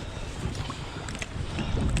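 Wind rumbling on the microphone aboard a canoe on open water, with a few faint small knocks.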